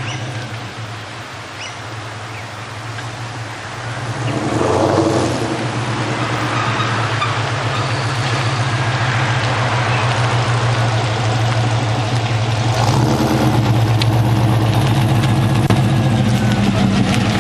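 Holden Calais's 6.0-litre L76 V8 running through a free-flowing exhaust with no rear muffler: pacemaker headers, 3-inch Magnaflow cats and a 2.5-inch Supercat catback. The steady exhaust note swells with a brief rise in revs about four seconds in, and grows louder again about three-quarters of the way through.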